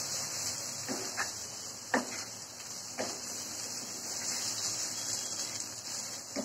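Spice paste sizzling in hot oil in a nonstick pan while a spatula stirs and scrapes it. A few sharp knocks of the spatula against the pan come about a second apart, and one more near the end.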